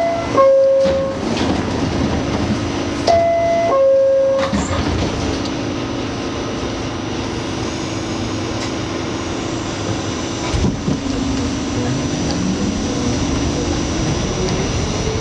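R68 subway car's two-note descending door chime, sounding twice, the second time about three seconds in. The car then runs with a steady rumble, and near the end a whine rises steadily in pitch as the train picks up speed.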